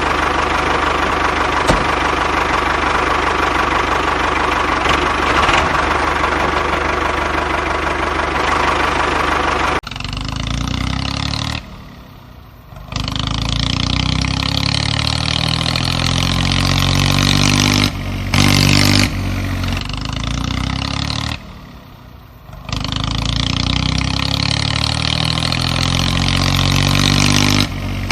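Engine sound, revving up again and again: after a steady, dense mechanical noise for about the first ten seconds, the pitch climbs in long sweeps, with two short drops in level in between.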